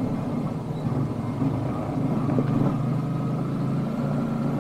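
Yamaha Jupiter MX 150 (MX King) single-cylinder four-stroke engine with its stock exhaust, running at steady revs while the bike is ridden along, with no revving up or down.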